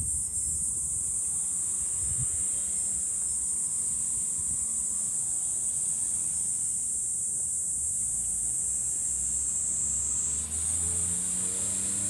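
Chorus of cicadas in a steady, high-pitched drone, with a low rumble underneath. Near the end a vehicle's engine is heard passing below.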